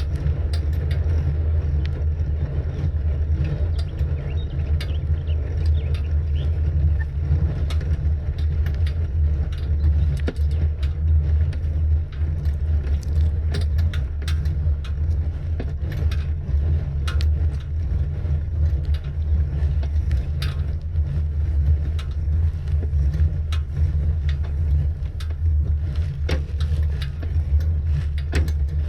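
Steady low rumble of wind on the microphone and road noise from a moving bicycle, with many small clicks and rattles scattered throughout.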